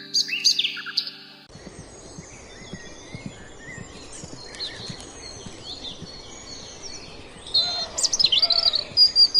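Songbirds chirping and twittering over a steady outdoor background hiss, the chirps getting louder and busier near the end. Background music with held tones plays under the birds and cuts off about a second and a half in.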